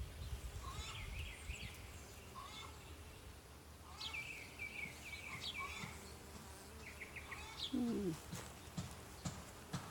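Birds chirping in a string of short high calls and quick trills over a low hum of bees from the open hive. About eight seconds in, a louder, lower-pitched call falls in pitch.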